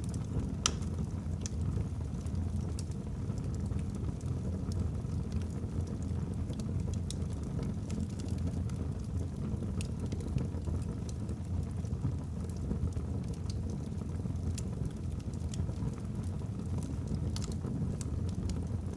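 Wood fire burning in a fireplace: a steady low rumble of flame with irregular sharp crackles and pops from the logs, one louder pop less than a second in.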